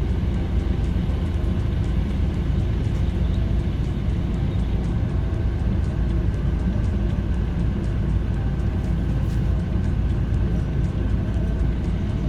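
Steady low rumble of a stationary car with its engine idling, heard from inside the cabin.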